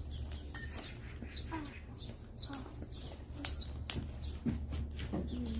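A small bird chirping repeatedly, short high chirps about once a second, over a steady low hum and a few sharp clicks.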